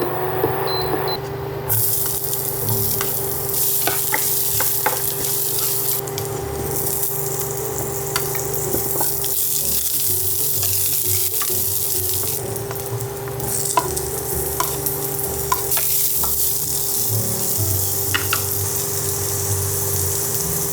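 Food sizzling as it fries in a pan, with short clicks and scrapes of a utensil stirring against the pan now and then.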